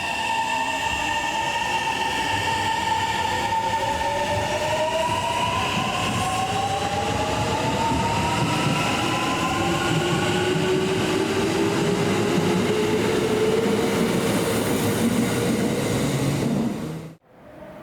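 Kintetsu electric commuter train accelerating, its traction motors whining in several tones that rise steadily in pitch over running rumble. The sound cuts off abruptly near the end.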